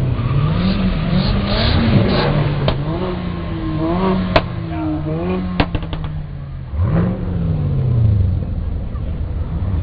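A sports car's engine revving in repeated blips, the pitch climbing and falling back each time, with a few sharp cracks near the middle.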